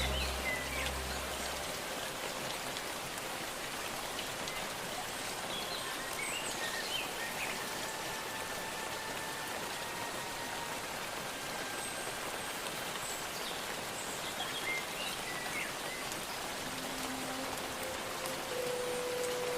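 Steady rain falling, an even patter, with a few short bird chirps. Low sustained music notes fade out within the first couple of seconds.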